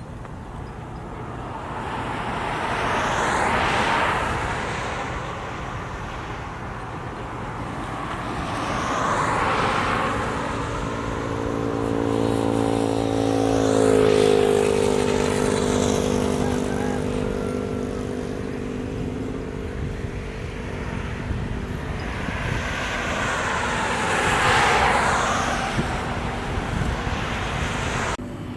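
Several vehicles pass by one after another on a road, each swelling up and fading away. The one passing about halfway through has an engine hum that drops in pitch as it goes by.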